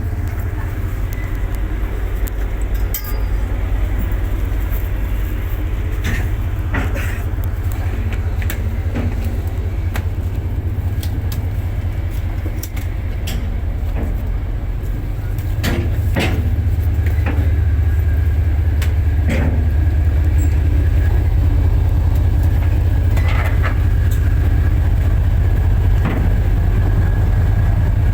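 Fast ferry's engines running at speed, a steady deep drone that gets louder about halfway through, with scattered knocks and rattles on top.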